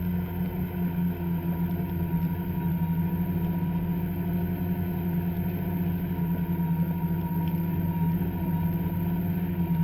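Two-stroke snowmobile engine running at a fairly steady speed, getting a little louder about two seconds in.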